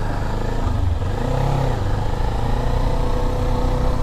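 Motorcycle engine running at low speed, its pitch rising briefly about a second and a half in as the throttle is opened, then settling.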